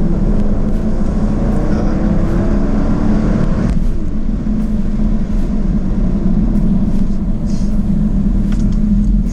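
The 2024 Jaguar F-Type's 5.0-litre supercharged V8 running under way, with a steady low rumble of engine and road noise. A faint rising engine note stops about three and a half seconds in.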